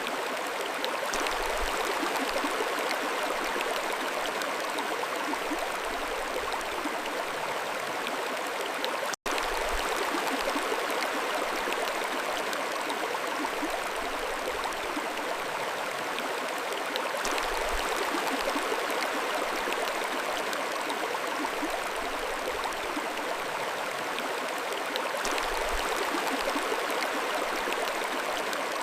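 Mountain stream flowing steadily, a constant rush and babble of water, broken by a momentary gap about nine seconds in.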